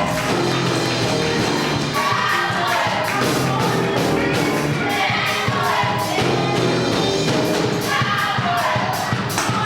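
Live gospel music: voices singing a melody over a band with a steady drum beat.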